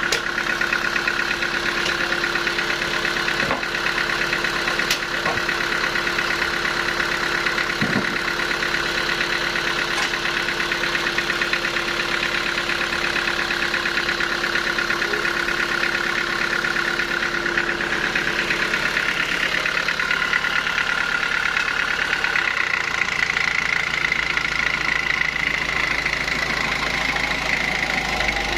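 Sawmill machinery running steadily: a constant mechanical hum with a high whine. The whine shifts higher about three quarters of the way through.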